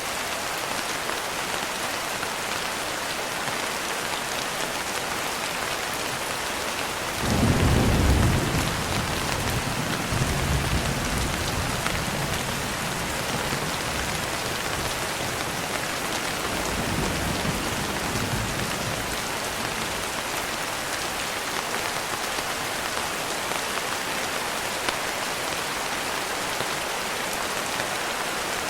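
Steady rain hissing, with a roll of thunder breaking in suddenly about a quarter of the way through. The thunder is loudest at the start and rumbles on more softly for about ten seconds.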